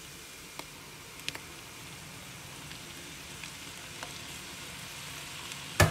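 Diced pork heart, liver and lung frying in a nonstick pan, a steady faint sizzle with a few small pops, just after fish sauce is poured in. A single sharp knock near the end.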